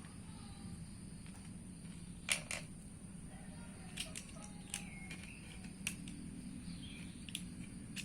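Scattered sharp clicks and knocks, about half a dozen spread irregularly, as a cured resin landing-gear casting is worked loose from its mold. The loudest comes a little over two seconds in.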